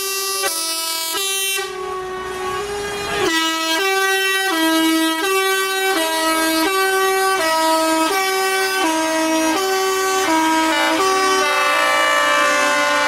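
A truck's musical air horn playing a tune, stepping from note to note about twice a second. There is a short break of about a second and a half near the start, where only a hiss is heard.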